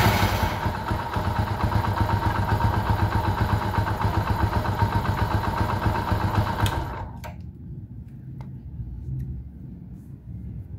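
Small Eco Deluxe motorcycle engine bursting into life and running steadily with an even rapid beat, then cut off abruptly about seven seconds in.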